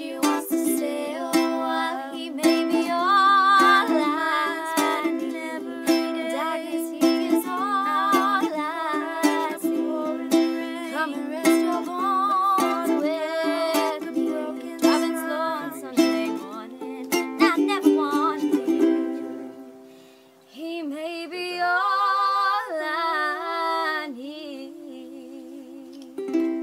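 Ukulele strummed steadily under a young woman's voice singing long, wavering notes without clear words. The music dips briefly about three-quarters of the way through, then a last sung phrase and a final strum close the song.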